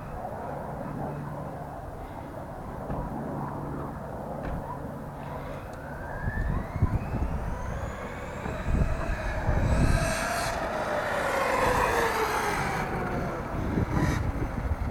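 Castle brushless motor and drivetrain of a 1/8-scale RC truck whining as it runs, the whine rising in pitch as the truck speeds up from about five seconds in and falling again as it slows near ten to thirteen seconds, over a low rumble.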